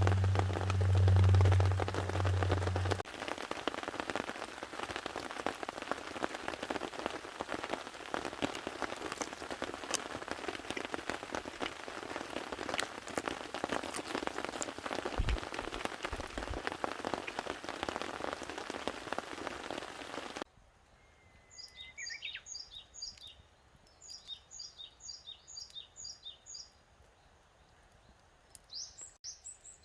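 Rain drumming on a camping tarp, a steady patter with scattered louder drips, with a low steady hum under it for the first three seconds. About twenty seconds in the rain cuts off abruptly, and small birds chirp in short, quick, repeated high notes.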